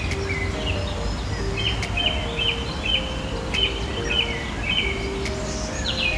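A bird calling: a quick series of about six short, high, repeated notes through the middle, with more scattered calls around them. Soft background music with slow held notes and a low steady rumble run underneath.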